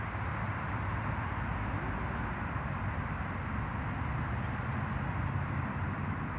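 Steady outdoor background noise: a low rumble with an even hiss, unchanging throughout.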